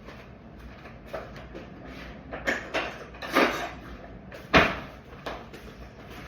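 A handful of separate knocks and clatters from objects being handled and moved while searching for a knife, with a short scrape about three and a half seconds in and one sharp knock about a second later the loudest.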